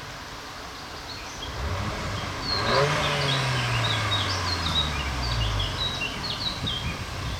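Audi S3's 2.0-litre turbocharged four-cylinder with Akrapovic exhaust starting up: a short build-up, then a sharp rev flare about three seconds in whose pitch falls steadily as the engine settles toward idle. Birds chirp throughout the flare.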